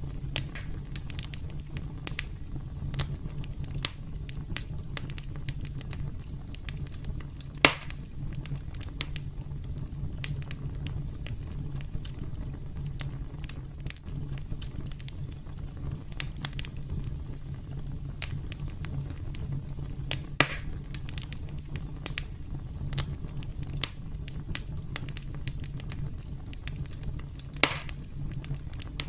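Campfire crackling: a steady low rumble of burning wood with frequent small snaps, and three louder pops, about a quarter of the way in, about two-thirds of the way in, and near the end.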